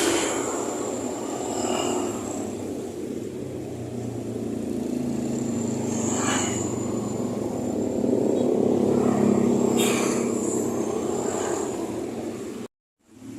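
A vehicle motor runs steadily, with a few brief high-pitched flares over the hum. It cuts off abruptly near the end.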